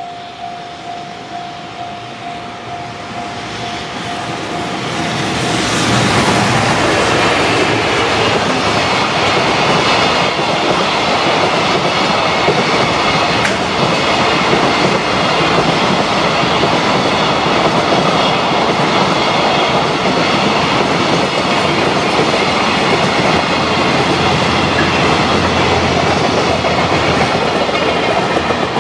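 A Japanese level-crossing warning bell rings in steady pulses as a JR Freight container train approaches. Over the first few seconds the train's noise swells and covers the bell, then the long rake of container wagons passes loudly and steadily with clickety-clack of wheels over the rail joints until near the end.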